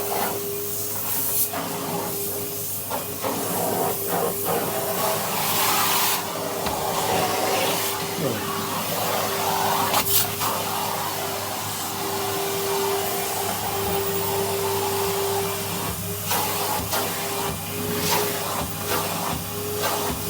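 Vacuum cleaner with a brush tool running steadily: a constant motor whine over a rushing hiss of suction, with scattered short knocks and rattles as it picks things up.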